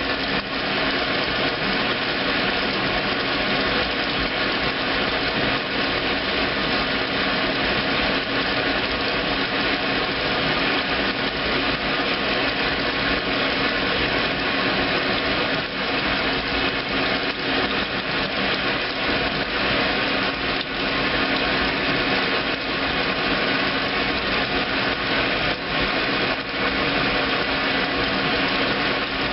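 2008 Kenmore washing machine running its heavy duty cycle: a steady motor and drive hum with a constant whirring, unchanging throughout.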